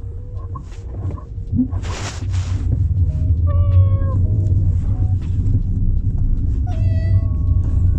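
A person imitating a cat's meow twice, each call sliding down in pitch, about three and a half seconds in and again near seven seconds, over a steady low rumble.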